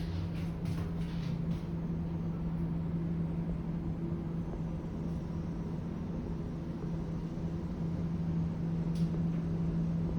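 A motor or fan running steadily: a constant low hum with one held tone.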